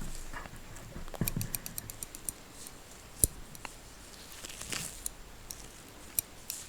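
Scissors snipping close to the microphone, a quick run of small sharp clicks, then a single soft knock and a brief swish.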